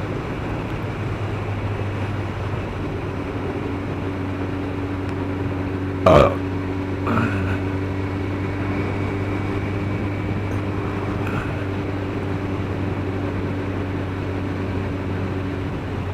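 Motorcycle engine running steadily while riding, with a constant low drone. About six seconds in there is one short, loud sound that falls sharply in pitch, and a fainter one a second later.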